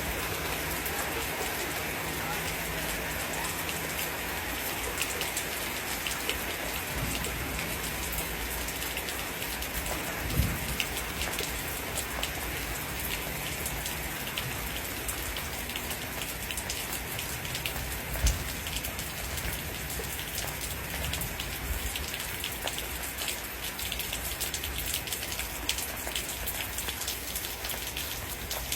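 Steady heavy rain falling on a surface, a dense patter with many individual drops ticking. Two brief low thumps stand out, about ten and eighteen seconds in.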